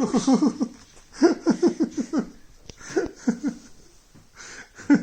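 A person laughing in several short runs of quick, repeated laughs, each run falling in pitch.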